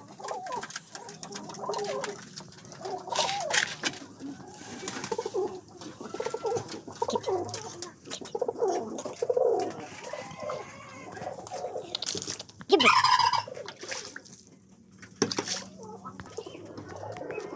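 Domestic pigeons cooing, mixed with chickens clucking and a louder call about two-thirds of the way in, with a few sharp clatters among them.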